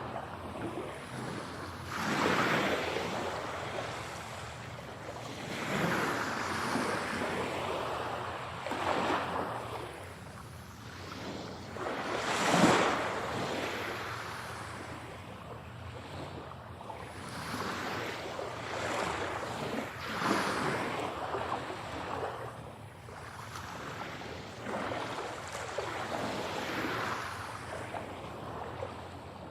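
Ocean waves washing onto a shore, a rushing surf that swells and falls every few seconds, with the biggest wave breaking about twelve seconds in. The surf is mixed in 8D audio, panned around the listener's head.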